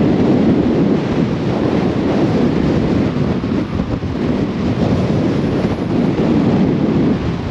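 Gale-force storm wind buffeting the microphone: a loud, steady rumble.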